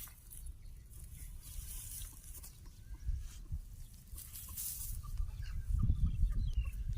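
Faint short animal calls over a low rumble that grows louder in the last second or so, with scattered rustling.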